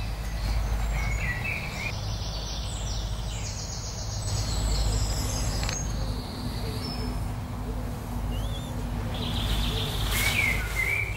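Woodland birds singing in the early-morning chorus, several overlapping chirps and trills, busiest near the end, over a steady low rumble.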